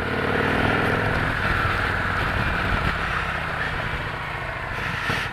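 Victory Cross Country's V-twin engine running under way, building up at first and then holding steady, with a little exhaust backfiring pops near the end as it eases off.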